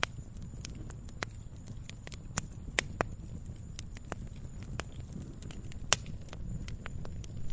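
Burning firewood crackling: irregular sharp pops and snaps over a low, steady rumble of the flames.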